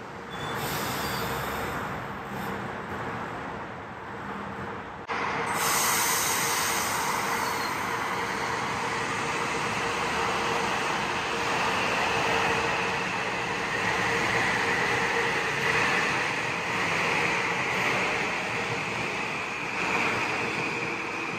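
Metro-North M8 electric multiple-unit train moving along the platform track: a steady rumble of wheels on rail with a constant motor hum. It gets suddenly louder about five seconds in, and a high whine comes up in the second half.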